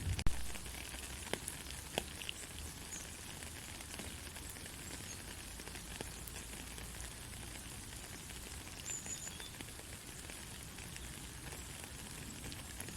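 Soft rain falling steadily as an even hiss, with scattered sharper drip ticks, the loudest right at the start. A couple of faint, brief high chirps come about nine seconds in.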